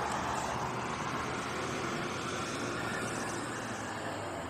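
Steady hum of many bees flying around a beehive.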